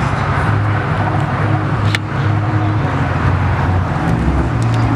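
Car engine running steadily with a low rumble, with one sharp click about two seconds in.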